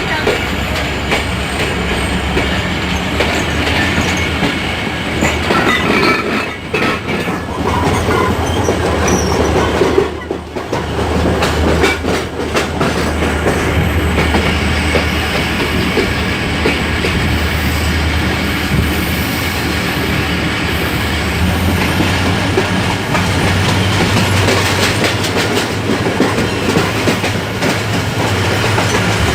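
Passenger train running on the track: wheels clacking over rail joints under a steady rumble and rattle of the coaches, with a brief dip in loudness about ten seconds in.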